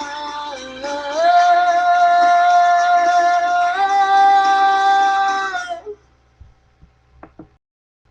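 A woman singing long held wordless notes that step between a few pitches, stopping about six seconds in. A few faint clicks follow.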